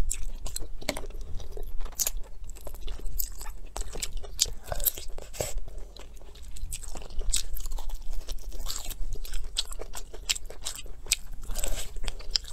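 A person chewing and biting into braised pork trotter close to the microphone: an irregular run of many sharp clicks.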